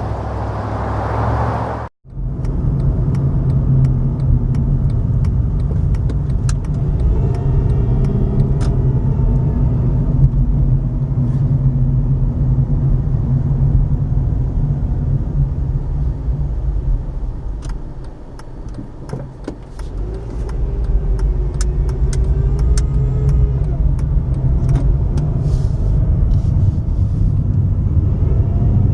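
A car being driven, heard from inside: a steady low rumble of engine and road noise. The sound cuts out briefly about two seconds in, and it eases off for a moment past the middle before picking up again.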